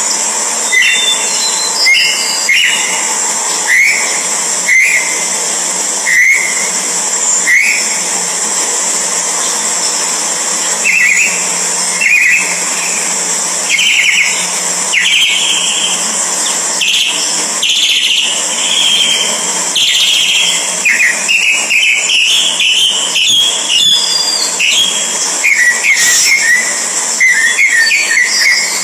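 Orange-headed thrush chirping: short call notes about once a second at first, then quicker, more jumbled chirps in the second half, over a steady high-pitched hiss.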